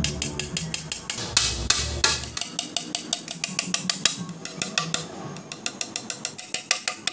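A hammer tapping nails into wooden cage framing: quick, sharp knocks, about four or five a second. Background music fades out about two seconds in.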